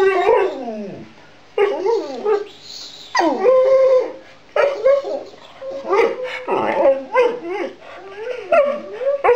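A dog 'talking': a string of whining, yowling vocalisations, one after another, each bending up and down in pitch.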